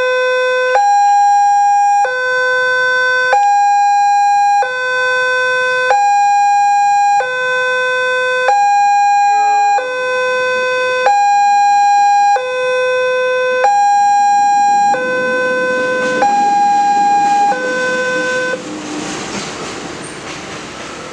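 Railway level-crossing warning alarm sounding a loud two-tone signal, a low and a high tone taking turns about every second and a quarter. It stops about eighteen seconds in, and road traffic noise follows.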